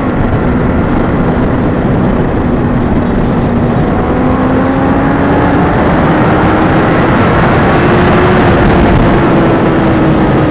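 Honda CBR600RR's inline-four engine running at a steady cruise, its pitch rising slowly as the bike gains speed and easing off a little near the end. Loud wind rush runs under it.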